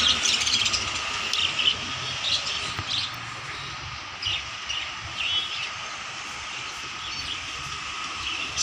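Small birds chirping in short, scattered calls over a steady background hum.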